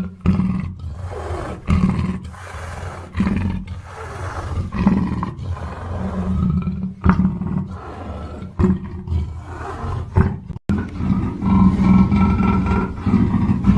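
Black panther roaring and growling in a run of repeated calls, broken by sudden cuts between them.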